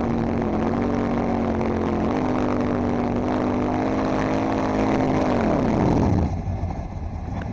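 Ford Mustang fastback's engine held at high, steady revs in a reverse burnout with the rear tyres spinning and smoking, stepping up a little about two seconds in. The revs drop off near the end as the burnout ends.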